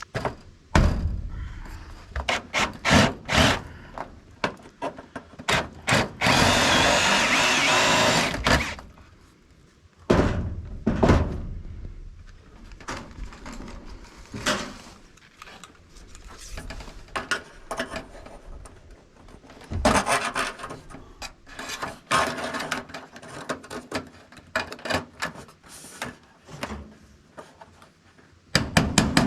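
Hand-held power drill running in short bursts, the longest about two seconds, among repeated knocks and thumps of gutter work.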